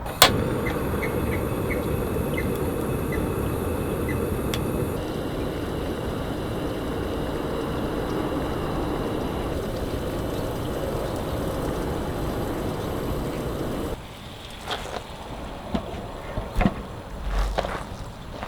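Strong wind blowing steadily, dropping away sharply about fourteen seconds in, followed by a few light knocks and clicks.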